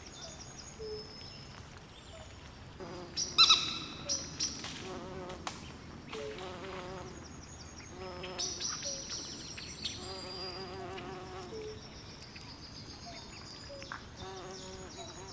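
Swamp night ambience: a chorus of calling frogs and insects with high chirps, made of repeated short calls and warbling trills. The loudest is a sharp call about three and a half seconds in.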